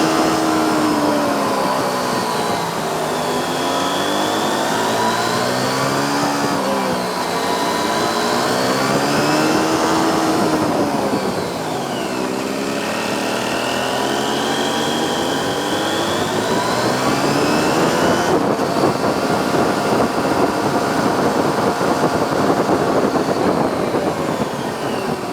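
Motorcycle engine under way, its pitch rising and falling repeatedly as the bike speeds up and eases off, with rushing noise growing stronger after about 18 seconds.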